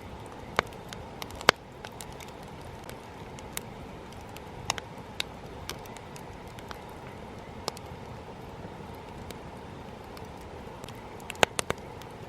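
Wood campfire burning with a steady low rustle of flames, broken by scattered sharp crackles and pops from the burning wood; one loud pop about a second and a half in and a quick run of three near the end.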